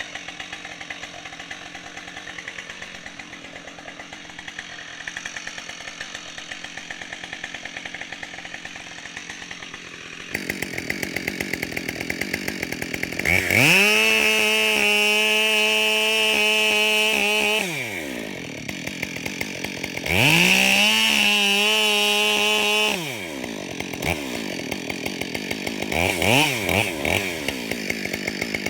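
Husqvarna 572XP two-stroke chainsaw idling with a steady rapid pulse. About halfway in it is opened up to full throttle and held there for around four seconds, twice, as the saw cuts into an elm trunk during felling. Near the end there are a few quick throttle blips.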